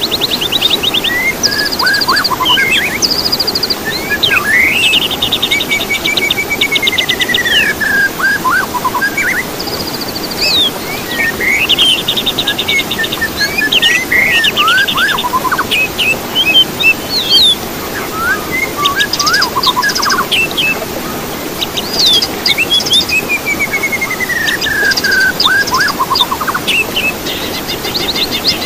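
Songbirds singing a varied stream of whistled notes, fast rattling trills and long falling slurs, over a steady background hiss.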